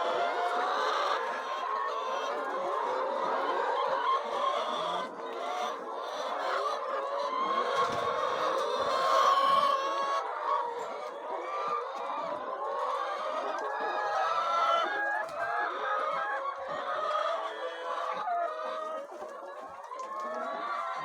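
A flock of chickens clucking and calling over one another, many short overlapping calls without let-up.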